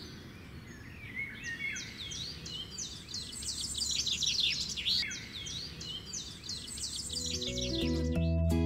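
Songbirds chirping and singing, quick repeated notes that sweep down in pitch, over a faint low background hiss. Near the end, acoustic guitar music comes in and grows louder.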